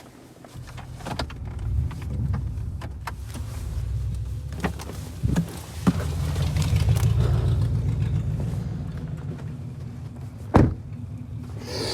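Car engine running as the car is driven, its sound rising and falling, with scattered knocks and one loud thump about ten and a half seconds in.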